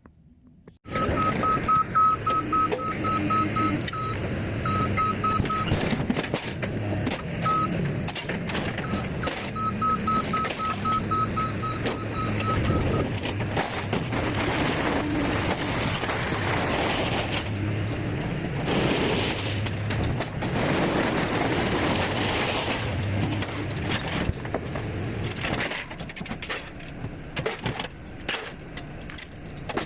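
Vehicle noise with a low rumble, with a high electronic beep repeating about twice a second for the first dozen seconds or so.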